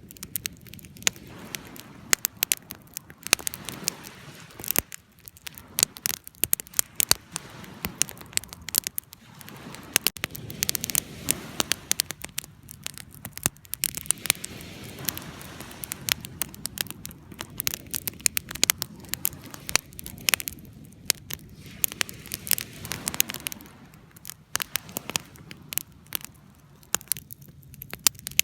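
Wood fire crackling and popping: many sharp, irregular snaps over a low, steady rush of burning.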